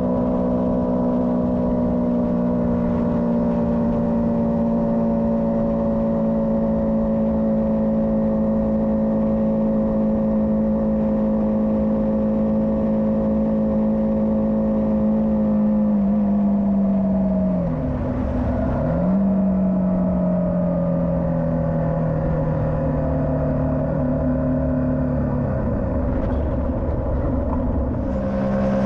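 Motorcycle engine running at a steady cruise. About two-thirds of the way through the engine note dips sharply and recovers, then settles lower, and near the end it drops once more before picking back up.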